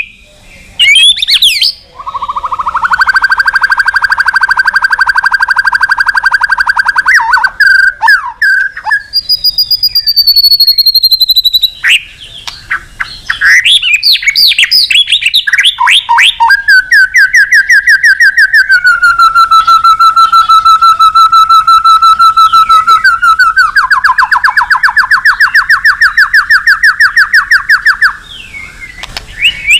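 White-rumped shama (murai batu) in full, vigorous song: long rapid rattling trills, a high whistle that slides downward, and quick chattering notes. It is the loud challenge song that is used as a lure to provoke rival males.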